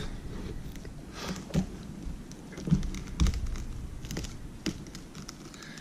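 Irregular small clicks and ticks of plastic guitar picks and a pry tool working under the cracked glass digitizer of an iPad mini, prying it off its adhesive.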